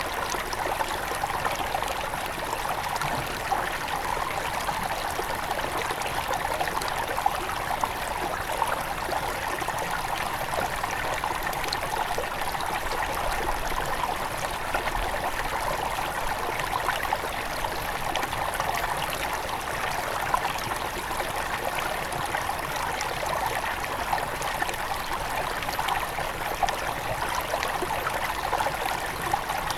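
Small forest river at its headwaters flowing steadily over stones, a continuous rushing with fine splashing and trickling.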